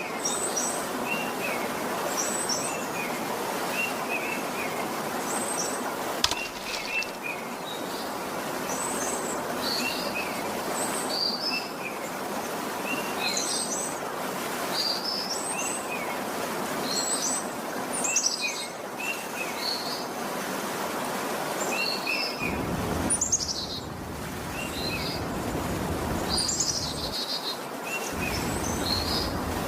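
Small birds chirping over and over, short rising and falling notes every second or so, over a steady rushing background noise; a low rumble joins it near the end.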